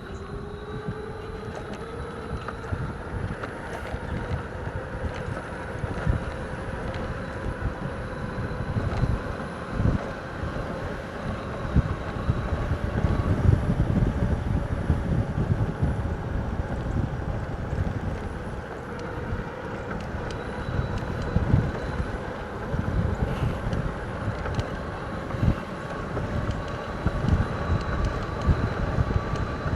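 Electric bike motor whining as the bike picks up speed, its pitch rising over the first few seconds and then holding fairly steady, rising a little again near the end. Wind buffets the microphone throughout.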